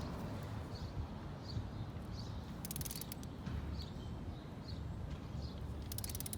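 Ratchet of a torque wrench clicking in two short, quick runs while a motorcycle spark plug is being tightened to torque.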